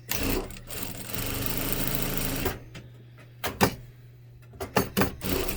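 Jack A5E industrial lockstitch sewing machine running steadily for about two and a half seconds, then stopping, followed by several sharp clicks and knocks.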